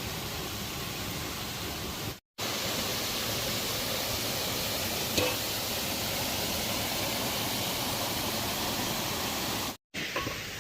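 Steady rush of a waterfall, broken twice by a short, sudden gap of silence, about two seconds in and near the end. A faint tap comes about halfway through.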